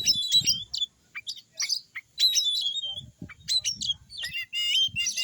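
Oriental magpie-robin singing: a fast, varied run of high whistled notes, chirps and quick pitch glides, broken by short pauses.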